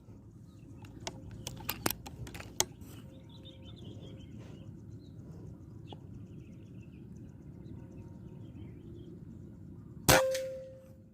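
A few faint clicks in the first few seconds, then about ten seconds in a single loud, sharp crack with a metallic ring that fades over about a second.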